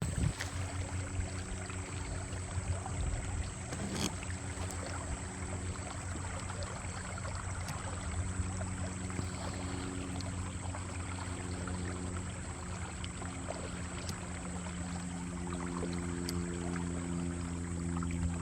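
Ambient sound from a kayak on open water: water lapping and wind noise, with a steady low hum of several tones underneath and an occasional sharp click.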